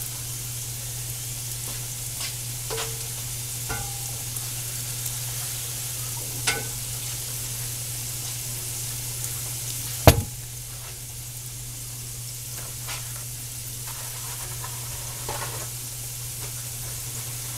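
Diced sweet potatoes sizzling steadily as they fry in oil in a nonstick pan, over a constant low hum. There are a few light clicks, and one sharp knock about ten seconds in.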